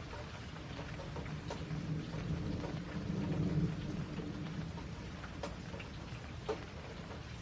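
Steady rain with scattered drops ticking on a surface. A low rumble of thunder swells about two seconds in and fades out after about four.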